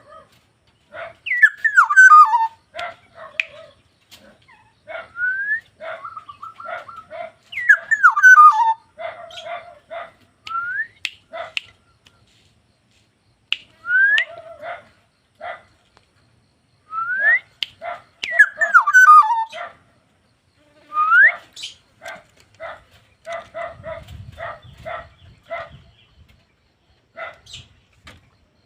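Black-naped oriole calling in bouts: short rising fluty whistles and louder harsh notes that fall in pitch, with many short low notes in between, repeated every few seconds.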